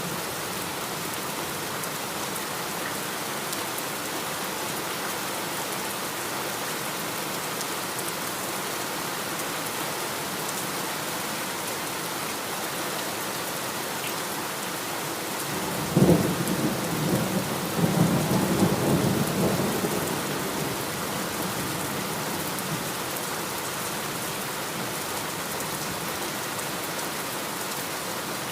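Steady rain falling. About halfway through, a sharp thunderclap breaks in and rolls on as low rumbling for about five seconds, then the rain carries on alone.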